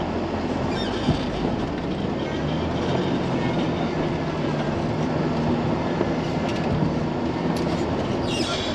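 Truck driving slowly through deep snow: a steady engine drone under the rumble of aired-down tires rolling and gripping in the snow, with a few sharp knocks about a second in.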